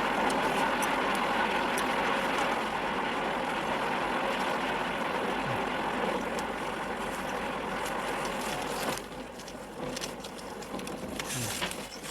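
Steady rushing road and engine noise of a moving vehicle, dropping noticeably about nine seconds in, with a few light clicks afterwards.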